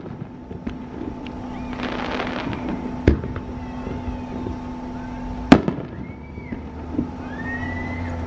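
Fireworks shells bursting: a crackling spray about two seconds in, then two loud sharp bangs about three and five and a half seconds in, with fainter pops and short whistling glides between. A steady hum runs underneath.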